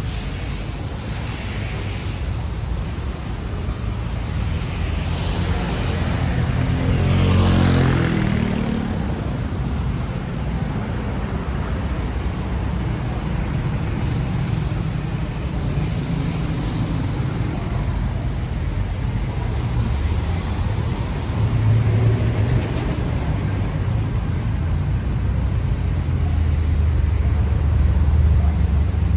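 Street traffic: motor vehicles running along the street, with one passing close about seven seconds in and more engine rumble swelling near the end.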